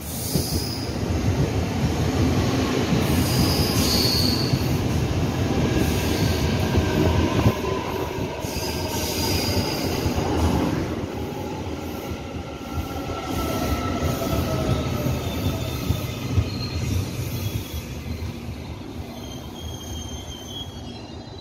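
Taiwan Railway EMU800-series electric multiple unit pulling into a station and braking to a stop: a heavy rumble of wheels on rail with brief high wheel squeals. In the second half come falling whines as it slows, and the rumble eases off near the end.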